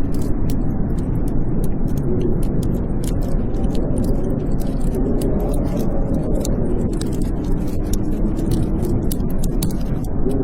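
Blizzard wind howling steadily with a low, wavering moan, over a wood fire crackling with frequent small sharp pops.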